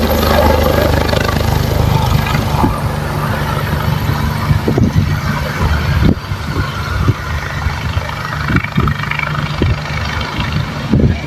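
Helicopter engine and rotor running, a steady low drone that eases after about two seconds, followed by irregular low bumps.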